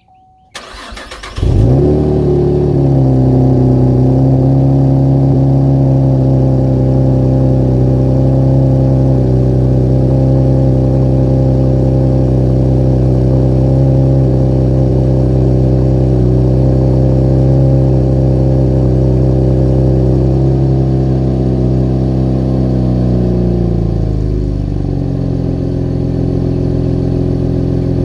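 2014 Chevrolet Camaro RS's 3.6-litre LFX V6 cold-started: a brief crank, the engine catching about a second in, then a steady fast cold idle that drops to a lower idle about 24 seconds in.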